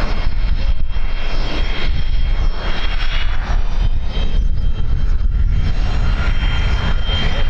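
Engines of an airliner arriving to land: a loud, steady rumble under a thin, steady high whine.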